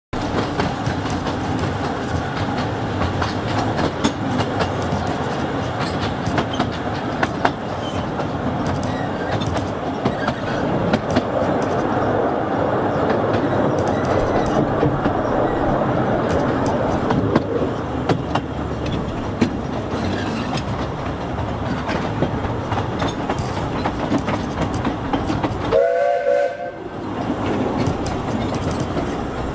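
Narrow-gauge passenger train running, a steady rumble with a rapid clickety-clack of wheels over the rails. Near the end a short whistle sounds once.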